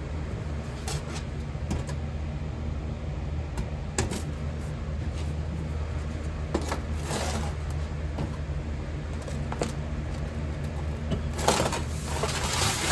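Melting furnace running with a steady low hum, with a few light knocks and two short bursts of scraping hiss, near the middle and near the end, from work at the pouring station.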